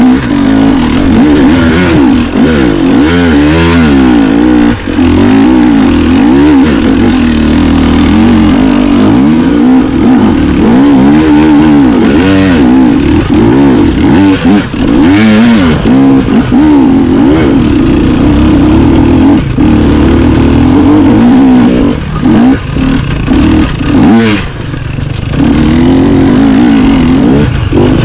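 Dirt bike engine running loud and close, its pitch rising and falling over and over as the throttle is opened and eased off, with a few short let-ups of the throttle near the end.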